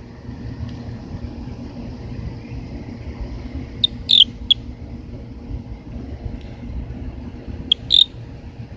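Short, high-pitched squeaky chirps of unknown origin at night, in two quick groups of two or three, about four seconds apart, over a steady low rumble.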